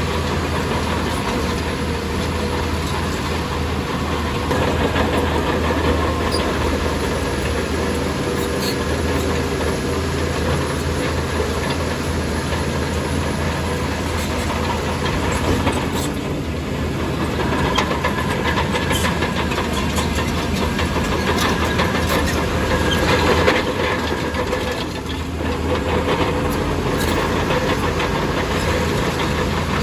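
Shantui DH17C2 crawler bulldozer running under load, its diesel engine droning steadily while the steel tracks clank and rattle. There are many short metallic knocks throughout, and the level dips briefly about 25 seconds in.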